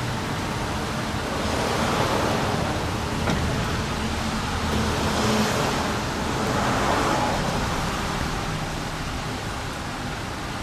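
ShinMaywa power gate (hydraulic tail lift) on an Isuzu Forward truck in operation: a steady mechanical hum with noise that swells a few times, against a traffic-like background.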